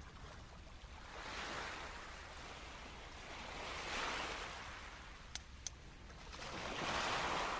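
Small waves washing up on the shore, three swells of surf about three seconds apart, with a couple of sharp clicks a little past the middle.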